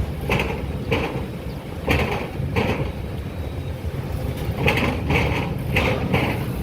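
A steady low mechanical rumble with about eight irregular clanks or knocks over it.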